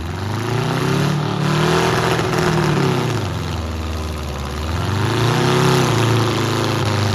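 Demolition derby car engine revving up and dropping back twice, then holding at a steady higher speed near the end.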